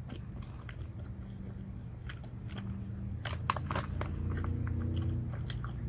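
A person chewing Haribo Goldbears Sour gummy bears, with wet mouth clicks and a cluster of sharp crinkly clicks about three and a half seconds in.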